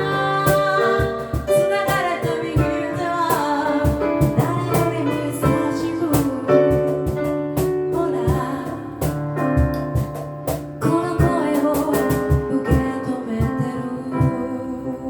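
A cappella vocal group singing a pop ballad in several-part harmony, over a steady percussion beat.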